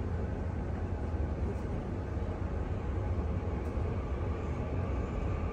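Cabin noise inside a TRA EMU800 electric commuter train: a steady low rumble with a faint even hum.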